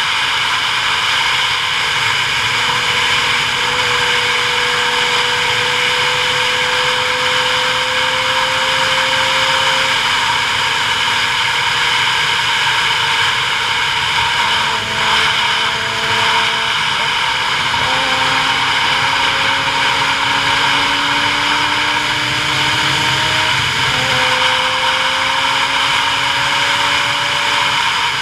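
Steady wind rush and road noise of a vehicle on a downhill run, with a motor tone that rises slowly in pitch and drops back abruptly several times.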